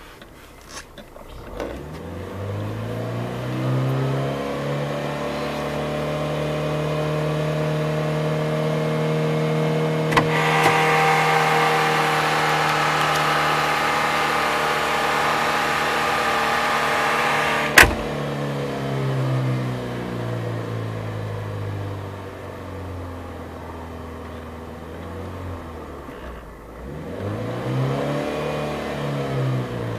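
Car engine revved from idle with the accelerator pedal and held at high revs for about fourteen seconds, growing harsher about ten seconds in. After a sharp click it falls back to idle, and a short rev rises and falls near the end.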